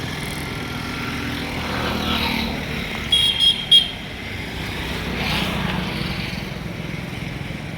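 Old Farmtrac 435 tractor's diesel engine running steadily, with a horn giving three quick short beeps a little after three seconds in.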